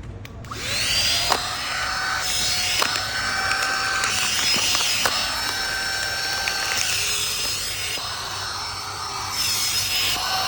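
Cordless vacuum cleaner motor starting about a second in and running with a steady high-pitched whine, with a few sharp clicks.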